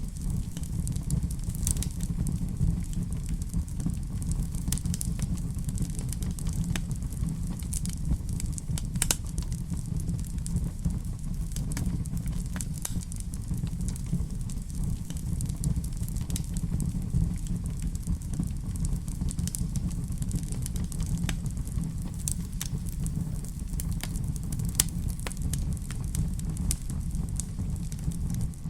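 Wood fire burning in a fireplace: a steady low rumble with scattered crackles and pops throughout.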